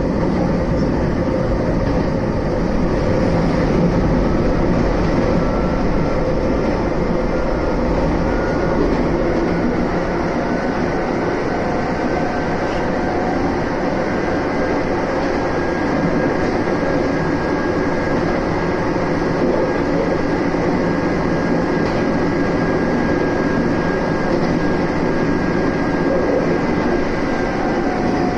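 Electric train running, its traction motors whining over the continuous rumble of wheels on rail. The motor whine is loud and holds a nearly steady pitch throughout.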